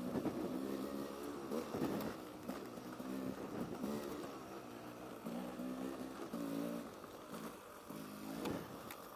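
Off-road motorcycle engine running on a trail ride, the throttle opened and eased off in short spells so its pitch rises and falls every second or so.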